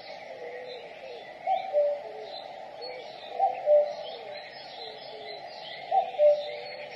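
Common cuckoo singing its two-note "cuck-oo", a higher note dropping to a lower one, three times about two and a half seconds apart. Smaller birds chirp and twitter faintly behind it.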